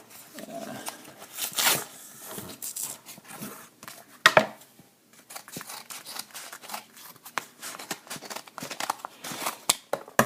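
A mail package being torn open by hand: paper ripping and packaging crinkling in irregular bursts, with the loudest rips about a second and a half in and just after four seconds in, and smaller rustles and clicks after that.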